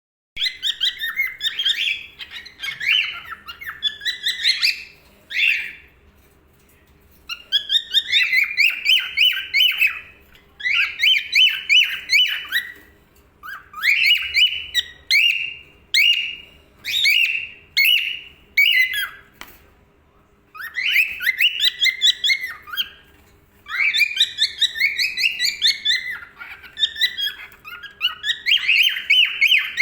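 Young male cockatiel chirping and whistling in phrases of quick repeated notes, with short pauses about six and twenty seconds in.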